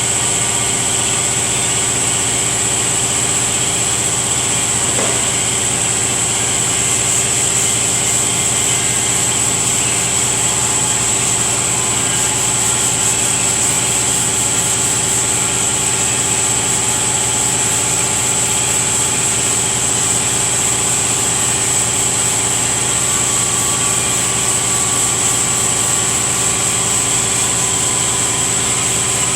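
Shop air compressor running steadily, a constant hum with a high whine over it.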